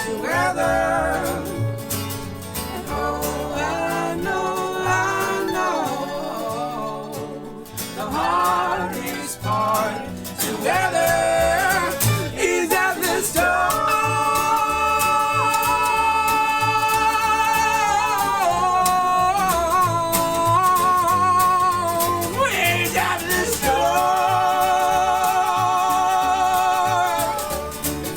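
Country-style song: a singer with acoustic guitar. In the second half the voice holds two long notes with vibrato.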